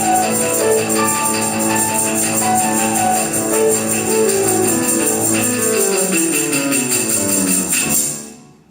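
Instrumental ensemble with a percussion section playing the closing bars of a lively piece, with shaken jingling percussion throughout. A descending run leads to the end, and the music stops about eight seconds in.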